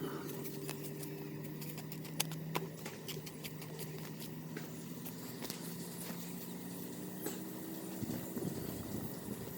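A steady low mechanical hum that fades after about two seconds and comes back faintly later, with scattered sharp clicks and taps throughout.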